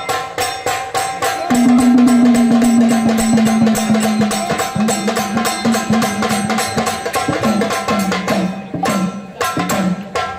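Instrumental folk music: a fast, driving drum beat with a held melody line entering about a second and a half in and stepping down in pitch, easing off briefly near the end.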